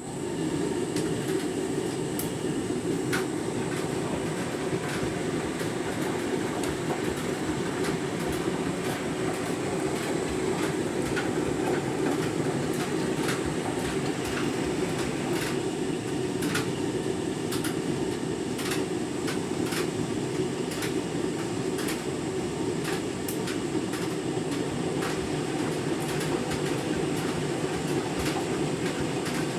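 Candy washing machine running a deep rinse with a half load: a steady drum rumble that comes in sharply at the start, with scattered light clicks on top.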